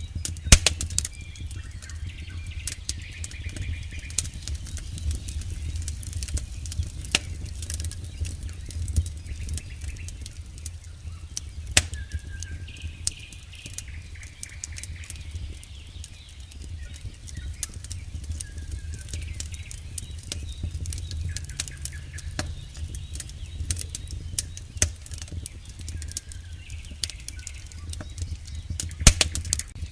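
Campfire burning: a steady low flutter of flames with scattered sharp crackles and pops from the burning wood, the loudest pops about half a second in and near the end.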